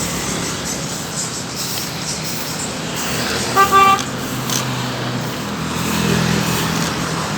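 Road traffic with a steady engine hum, and a vehicle horn giving two short toots about three and a half seconds in.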